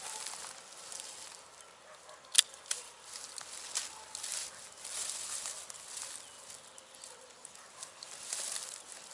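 Rustling and scraping that comes and goes, with one sharp snap about two and a half seconds in.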